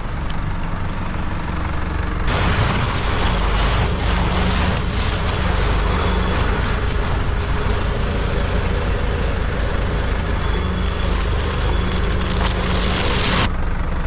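A farm vehicle's engine running steadily, with a loud rushing noise that starts suddenly about two seconds in and cuts off shortly before the end.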